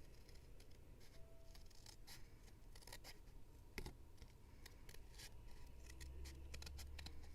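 Scissors cutting paper: a quiet series of short, irregularly spaced snips over a low steady hum.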